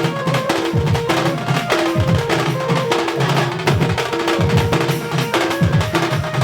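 Melody-band music in a Karma-style rhythm, led by drums: low drum hits that drop in pitch, in a steady repeating pattern, with short repeated notes above them.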